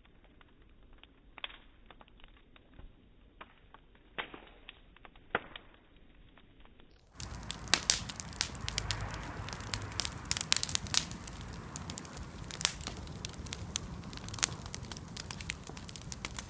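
Bonfire crackling and popping. Sparse, fainter snaps at first; about seven seconds in it turns suddenly louder and denser, with rapid crackles over a steady rush of burning.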